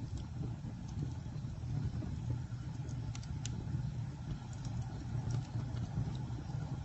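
Campfire burning: a steady low roar of flames, with a few sharp crackles a little past the middle.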